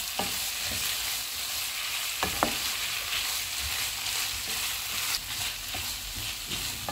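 Chicken strips, bell peppers and onion sizzling in a nonstick wok as a wooden spatula stirs them, with a steady hiss and a few sharp taps and scrapes of the spatula against the pan.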